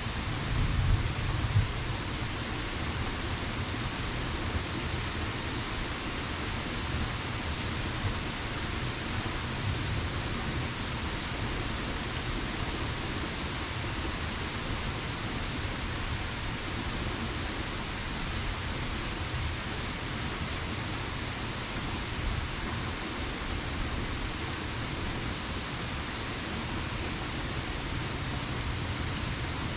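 Steady rain falling, an even hiss with no breaks. In the first two seconds a low rumble of thunder dies away.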